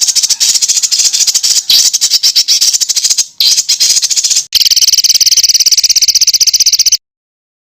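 Songbird calls in a dense, harsh rapid-fire chatter of sharp notes, the kind of 'tembakan' material used to train competition birds. About halfway through it switches to a steady, fast buzzing trill, and it cuts off abruptly near the end.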